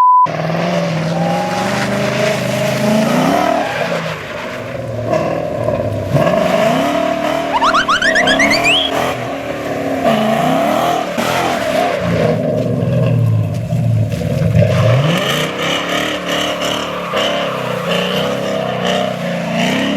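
Car engines revving up and down again and again, their pitch rising and falling, with a rising whistle-like whine about eight seconds in.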